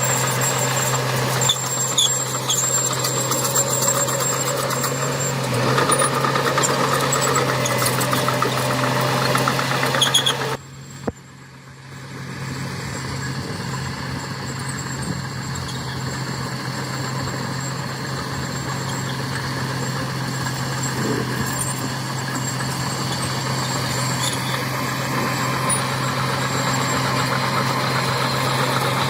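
Diesel engine of heavy earthmoving machinery running steadily with a constant low drone. It drops away briefly about ten seconds in, then picks up again.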